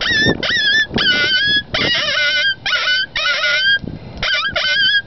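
Cow horn coyote howler being blown in a rapid string of short, high, wavering yips and howls imitating coyote vocalizations, each call breaking off after well under a second.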